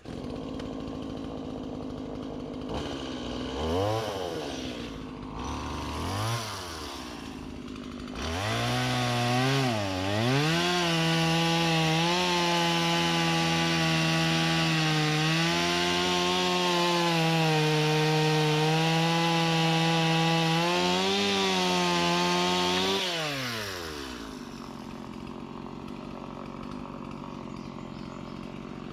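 Two-stroke chainsaw idling and blipped twice, then held at high revs for about fifteen seconds, its pitch sagging slightly now and then as it cuts through a log, before dropping back to idle and revving again at the end.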